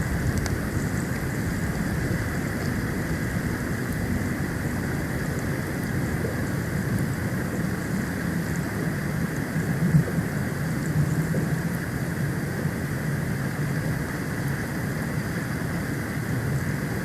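Storm wind buffeting the outdoor nest-cam microphone during a snowstorm, a steady noise that is briefly louder about ten seconds in.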